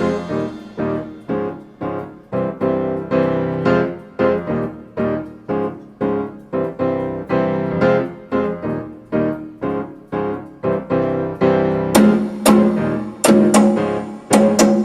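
Piano playing a rhythmic passage of repeated struck chords in a salsa tune, mostly alone. About twelve seconds in, the drums and cymbals come back in.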